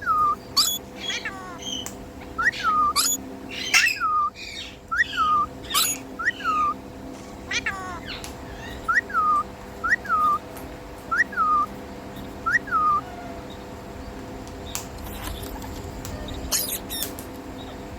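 Indian ringneck parrot giving short whistled calls, each jumping up and then sliding down, repeated in quick series for about thirteen seconds, then a few sharp high chirps near the end.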